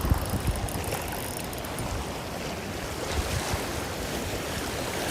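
Steady rush of a swollen, rough river after a typhoon, with wind on the microphone and a few soft low knocks near the start and about three seconds in.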